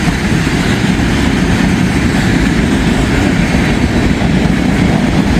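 CSX empty rail train (a work train) rolling past, a steady, loud rumble of its wheels on the rails.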